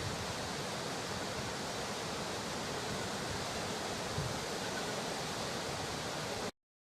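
Steady, even rushing noise with no distinct events, cutting off abruptly about six and a half seconds in.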